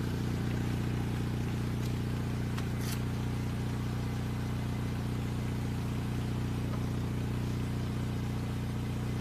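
A car engine idling, a steady low hum, with a couple of faint clicks about two and three seconds in.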